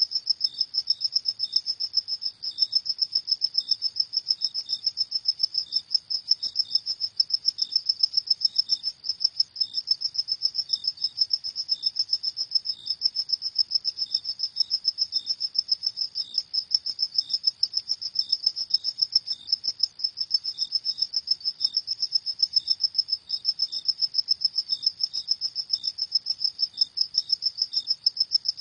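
Crickets chirping at night: a steady, high, rapidly pulsing trill, with a second, fainter, slightly lower call that comes and goes.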